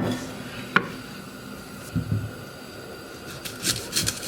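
A few light knocks and clicks of kitchen handling, likely utensils or food being set on a wooden cutting board, with a quick cluster of taps near the end.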